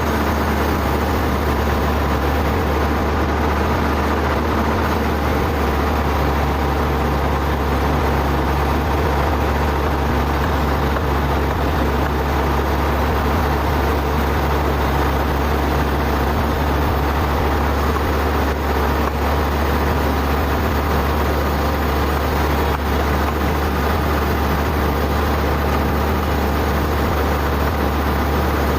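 Sawmill machinery running with a steady, unbroken low drone.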